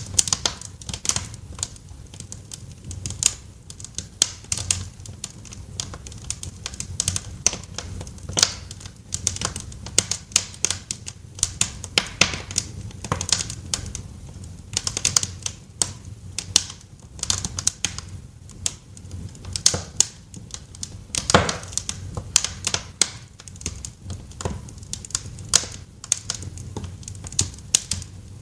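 Wood fire crackling in a fireplace: irregular sharp pops and snaps of varying loudness over a steady low rumble, with one louder pop about two-thirds of the way through.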